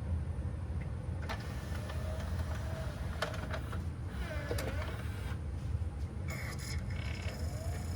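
Pioneer CLD-59 laserdisc player's mechanism running under test after repair of its laser sled motor holder: a steady motor hum with scattered clicks and a few short motor whines.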